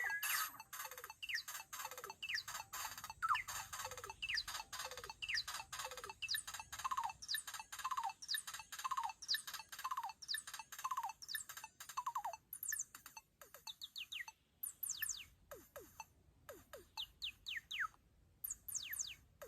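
Korg Volca FM synthesizer playing a sequence of short, chirp-like blips that fall steeply in pitch, about two a second at first, growing sparser and fainter with gaps later on.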